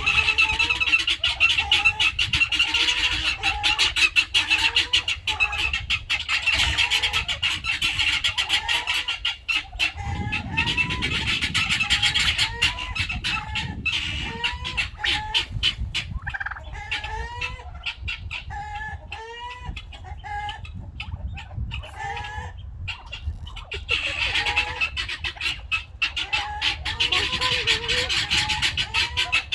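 A flock of domestic turkeys calling: many short, overlapping yelps and clucks, each bending up and down in pitch, over a constant high chatter.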